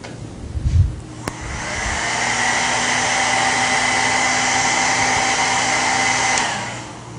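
Handheld blow dryer switched on with a click about a second in, running steadily with a rushing whine for about five seconds, then switched off and winding down. It is drying the glue under a freshly laid weave track. A low thump comes just before it starts.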